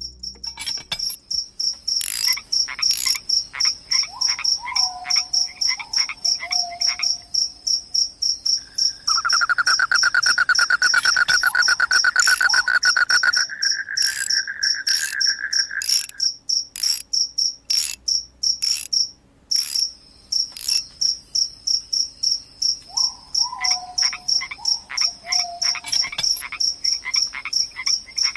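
Insects chirping in a fast, steady, high-pitched pulse. A louder buzzing trill runs for several seconds about a third of the way in. Short falling calls come twice, once early and once near the end.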